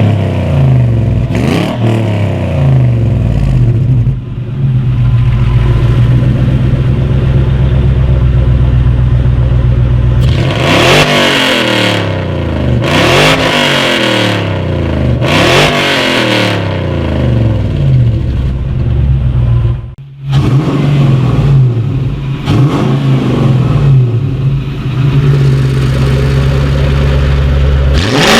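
Supercharged Lexus 1UZ-FE 4.0 L V8 idling and being revved through an electric-cutout exhaust. Several sharp revs rise and fall back to idle, most of them bunched about ten to seventeen seconds in, with a brief dip near twenty seconds.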